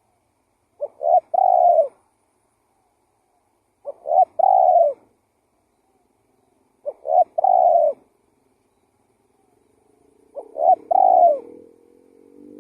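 Spotted dove (tekukur) cooing: four call phrases about three seconds apart, each one or two short notes followed by a longer rolling coo. A fainter low droning tone with several pitches comes in near the end and rises slowly beneath the last call.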